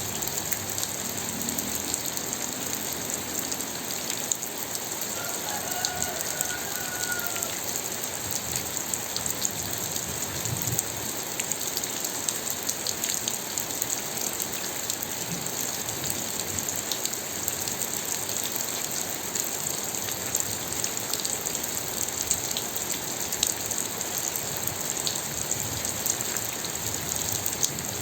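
Steady, heavy rain: a continuous hiss with a dense patter of individual drops hitting a surface.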